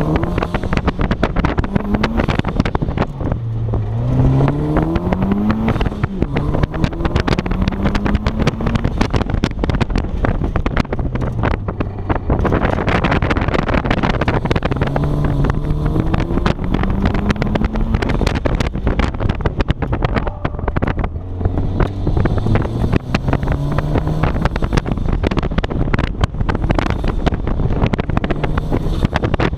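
1994 Mazda Miata's 1.8-litre four-cylinder engine being driven hard on an autocross course. Its pitch climbs under acceleration, then drops as the driver lifts or brakes, many times over, with steady wind and road noise.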